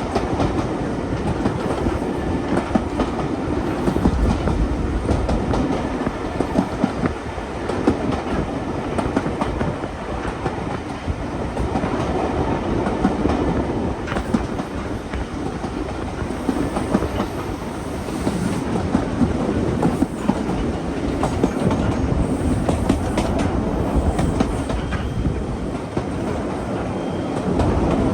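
Railway train running along the track: a steady rumble with the clickety-clack of wheels over rail joints.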